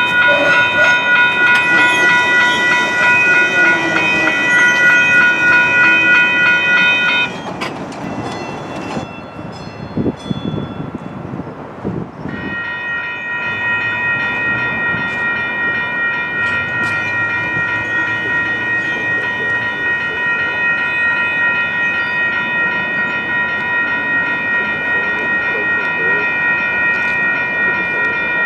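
Grade crossing warning bells ringing steadily. They cut off about seven seconds in, and a few knocks and rail rumble are heard before the bells start again about five seconds later and keep ringing.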